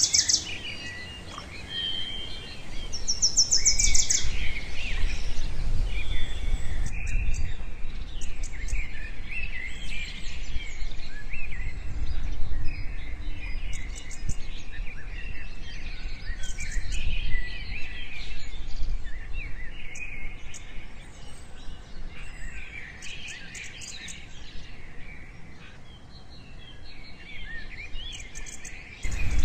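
Many small birds chirping and trilling over one another in a dense, continuous chorus, with a low rumble underneath.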